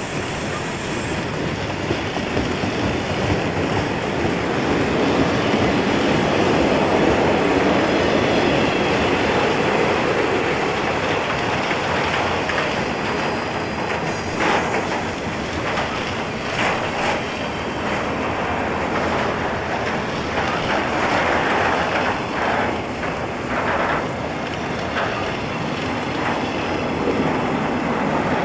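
Santa Fe freight cars, boxcars and then trailers on flatcars, rolling steadily past close by: a continuous rumble of steel wheels on the rail, with irregular sharp clicks from about halfway through.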